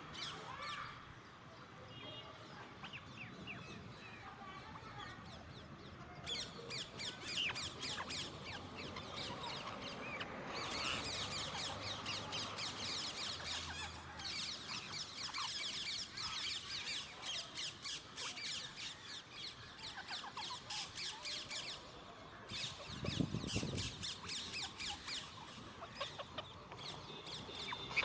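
Alexandrine parakeets giving long runs of harsh, rapidly repeated squawks, several a second, with a short break about three-quarters of the way through. A brief low thud comes just after the break.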